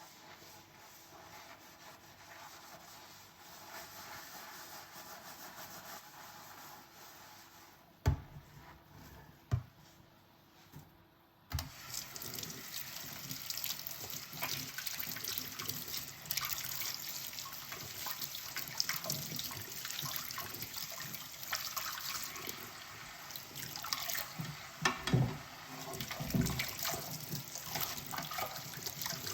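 Washing dishes by hand at a kitchen sink: soft scrubbing at first, two sharp knocks of dishware about eight and nine seconds in, then the tap comes on and water runs steadily over the dishes, with clinks of tableware now and then.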